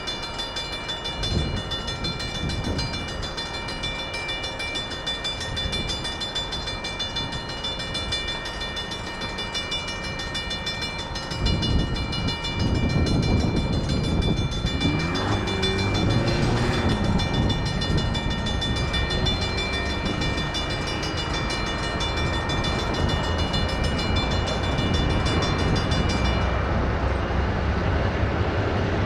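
Railroad crossing bells ringing steadily while an EMD SW1500 switcher locomotive moves over the crossing. The locomotive's rumble gets louder about eleven seconds in.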